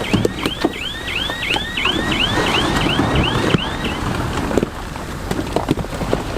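Crawler bulldozer working in stone: the engine runs under a clatter of knocks, with a high squeal from the tracks that rises and falls about three times a second and stops about four seconds in.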